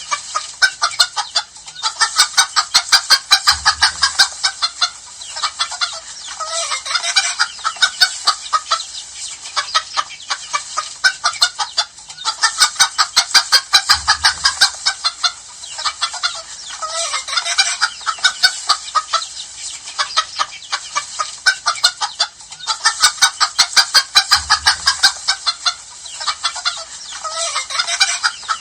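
Hens clucking and cackling in rapid runs of short notes, swelling into loud bursts that repeat about every ten seconds.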